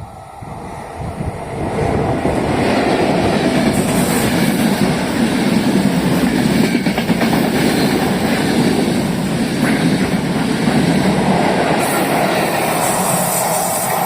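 A train running past on the rails, its rumble growing over the first two seconds and then holding loud and steady as the cars go by.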